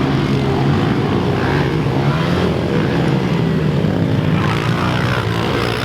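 Single-cylinder pit bike engine running at a steady pitch, with no clear revving.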